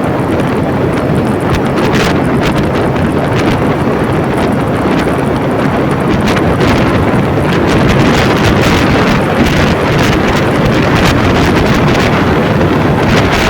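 Steady wind rush over the microphone with road noise from a vehicle travelling on a wet road.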